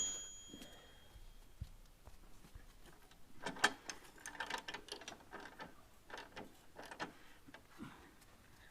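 A metal tool clink rings out and fades at the start, followed by faint, irregular mechanical clicks and ticks from working on a motorcycle's front wheel assembly.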